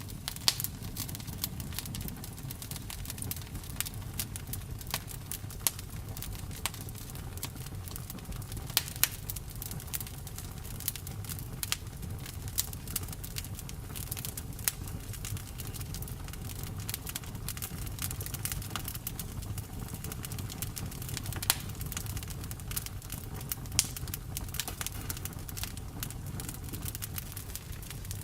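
Wood bonfire crackling, with frequent irregular sharp pops and snaps over a steady low rumble of the flames.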